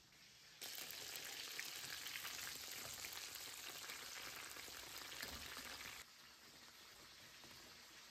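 Hot oil sizzling as breaded chicken burger patties shallow-fry in a pan: a steady frying hiss that starts abruptly about half a second in and drops to a quieter hiss about six seconds in.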